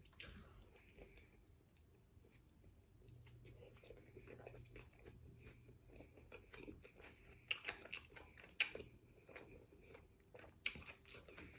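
Faint close-up chewing of a chicken burrito with soft wet mouth clicks, starting a few seconds in, with a few sharper clicks in the second half.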